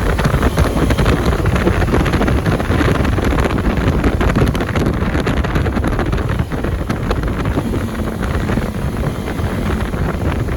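KTM 390 single-cylinder motorcycle engine running steadily, under heavy wind buffeting on the microphone.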